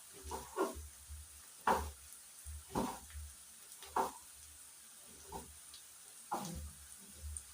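A spoon stirring food in a cooking pan, making short scrapes at uneven intervals about once a second.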